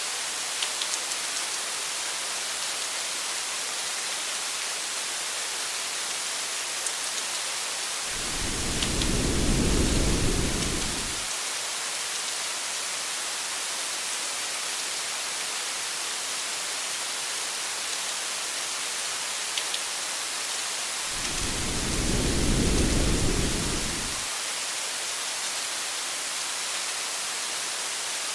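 Steady rain hiss with faint scattered drop ticks. Twice, about eight and twenty-one seconds in, a low rumble of thunder swells for about three seconds and fades.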